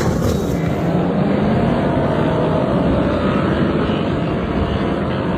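Racing motorcycle engines running on a circuit: a steady, loud din of engine noise with a faint engine note drifting in pitch.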